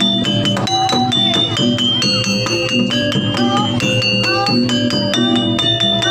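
Live jaranan pegon music from a Javanese ensemble: a melody of held notes, changing about twice a second, over fast, busy percussion.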